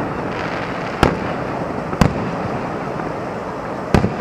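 Aerial firework shells bursting with three sharp bangs: about a second in, a second later, and again near the end, over steady background noise.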